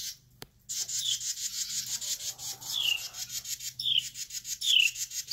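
A bird giving short, high falling chirps about once a second over a fast, steady, high rasping pulse. A single brief click comes about half a second in.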